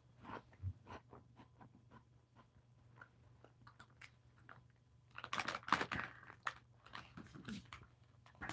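Faint crunchy chewing of a snack close to a clip-on microphone, with small scattered clicks that thicken into a louder run of crackles about five seconds in.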